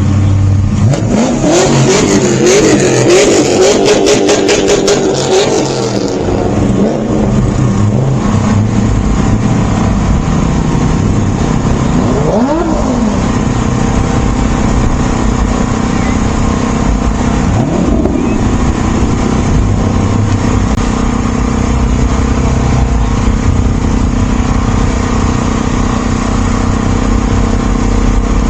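Car engines running: a steady engine drone throughout, with a loud revving engine and a rapid crackle from about one to six seconds in. Later come a couple of shorter rises and falls in engine pitch.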